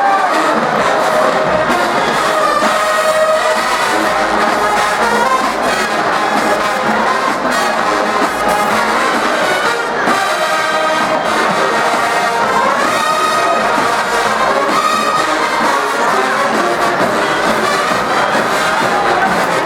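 Marching band brass section playing loudly: trumpets, trombones and other horns carrying a melody together.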